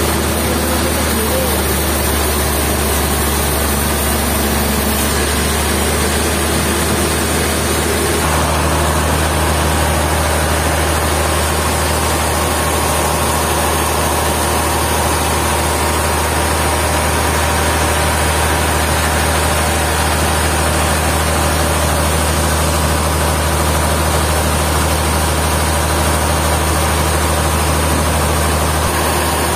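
Sawmill engine running steadily with a deep hum; about eight seconds in the sound changes as a further steady tone joins.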